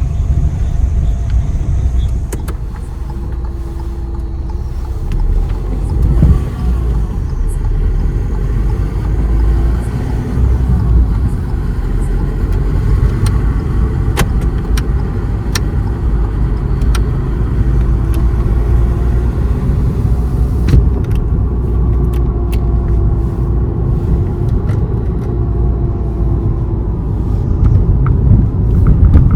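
Car on the move: steady low rumble of engine and road noise, with a faint engine note that wavers in pitch and a few small clicks.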